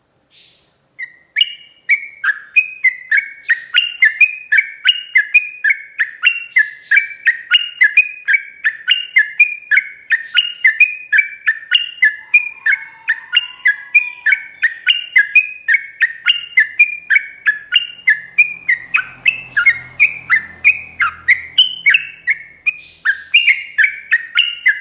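Sooty-headed bulbul (trucuk) singing a long, fast unbroken run of short whistled notes, about three a second, starting a moment in.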